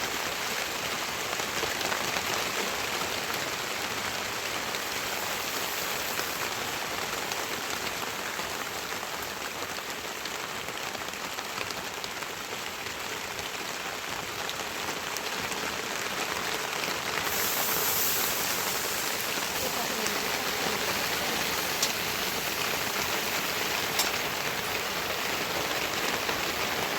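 Heavy rain falling steadily, a dense even hiss that grows a little louder about two-thirds of the way through, with a few sharp drop ticks, the clearest near the end.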